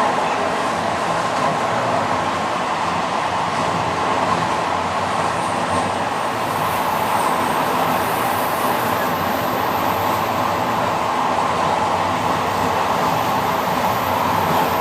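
Passenger train running steadily, an even rushing rail noise with no clear breaks. A thin high whine joins it about six seconds in.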